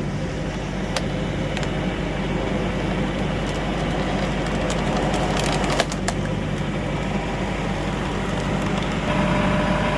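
A tractor-driven screw log splitter biting into a log, with the wood cracking and splintering as it splits, over the steady running of the tractor engine. There are sharp cracks about a second in and again a little before six seconds.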